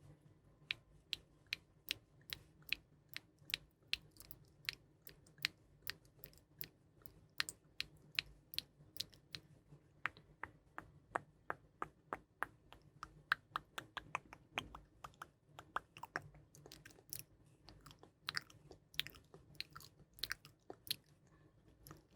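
Close-miked ASMR trigger sounds: a long run of crisp, sharp clicks and taps, about two to three a second, over a faint low hum.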